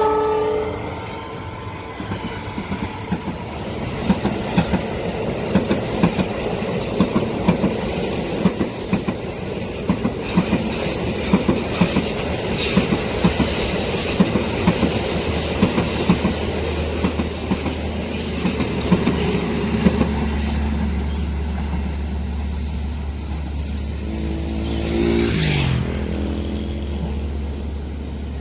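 A long train passing close by. A short horn note sounds at the start. Its wheels then clatter over the rail joints in rapid, irregular clicks for about twenty seconds, with a thin high wheel squeal, and a low steady hum comes in midway.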